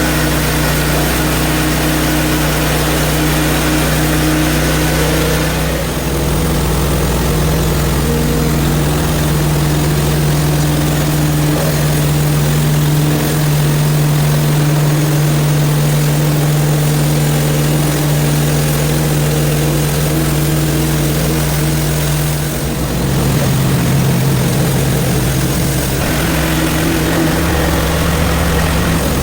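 Gas engine of a portable bandsaw sawmill running steadily while the mill saws a frozen log; the engine note changes pitch a few times as the load shifts.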